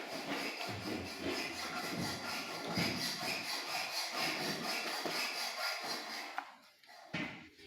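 Hand tool cutting into a metal pipe with rasping strokes, roughly one a second. It stops with a sharp click a little over six seconds in.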